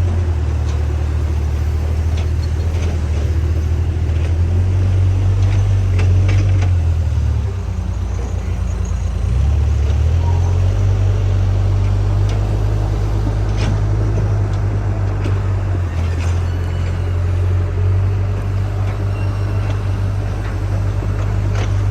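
Diesel engine of a JCB backhoe loader running steadily, its note dropping for a couple of seconds about a third of the way in and then picking up again, with a few sharp knocks along the way.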